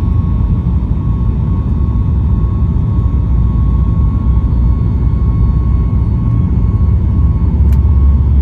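Boeing 737-8 MAX heard from inside the cabin: its CFM LEAP-1B jet engines and the airflow make a steady, loud, heavy rumble with a steady whine over it. A single brief click comes near the end.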